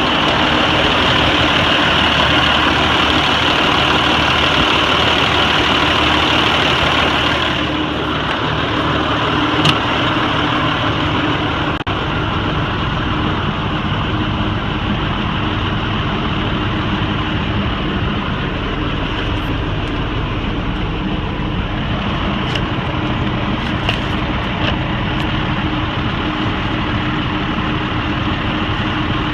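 Diesel engine of a 1999 Sterling single-axle truck running steadily at idle, a little louder for the first several seconds, with a few faint clicks.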